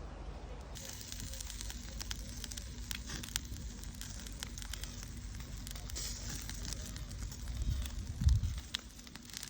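Wood fire crackling and popping with many sharp snaps, starting about a second in, over a steady low rumble of wind on the microphone. A louder low gust comes about eight seconds in.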